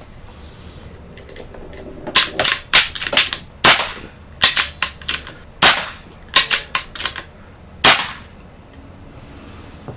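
Suppressed shots from a .22 PCP air pistol, a converted Crosman Marauder pistol, fitted with a Rocker1 suppressor. A string of sharp cracks and clicks runs from about two seconds in to about eight seconds, some spaced a fraction of a second apart, which mixes the shots with the clack of the bolt being cycled between them.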